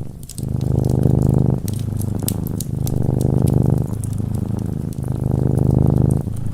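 A cat purring close up, a low pulsing rumble that alternates in phases of about a second each as it breathes in and out. Light fireplace crackles tick over it.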